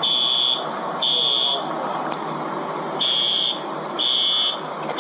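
Building fire alarm sounding the temporal-three evacuation signal: high electronic beeps about once a second in groups of three, with a longer pause between groups, set off by a fire in the store.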